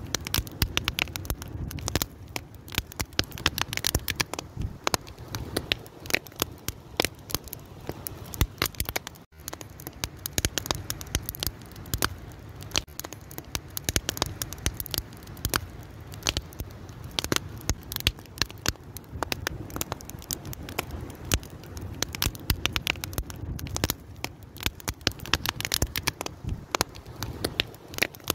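Wood fire crackling: a dense, irregular stream of sharp pops and snaps over a low, steady rumble of flame. There is a momentary drop in level about nine seconds in.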